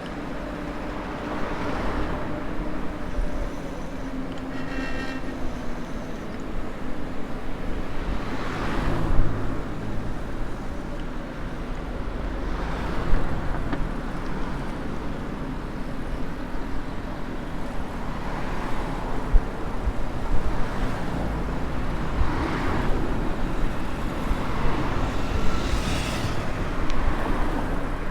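Steady wind and road noise while riding a folding e-bike, with cars passing several times. A brief high ringing sound comes about five seconds in.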